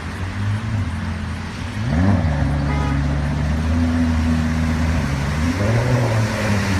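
A car engine accelerating: its pitch climbs sharply and the sound grows louder about two seconds in, then holds steady at the higher pitch.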